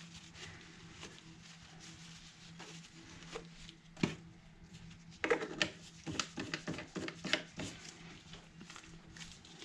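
Hands handling small objects: scattered light clicks and taps, a sharper click about four seconds in and a run of clicks from about five to eight seconds in, over a faint steady hum.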